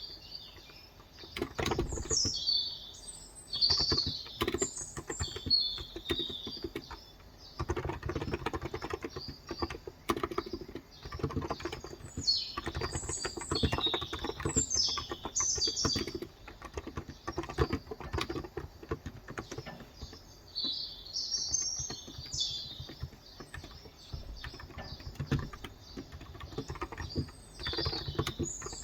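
Typing on a Cox Endeavor electrostatic capacitive keyboard with light 35 g switches, rapid keystrokes in runs with short pauses between them. Birds chirp in the background several times.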